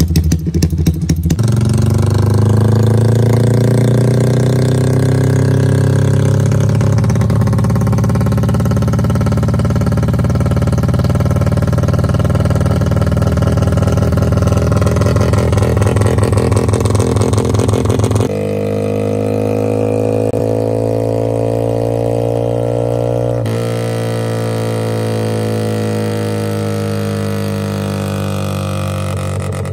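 Yamaha Y15ZR motorcycle's single-cylinder four-stroke engine revving hard on a chassis dyno, the pitch climbing slowly through a long pull; about 18 seconds in the sound changes abruptly and the revs rise and fall. The owner reports the power dropping away around 9,000–10,000 rpm with a stutter, which he suspects is the fuel pump or the throttle position sensor.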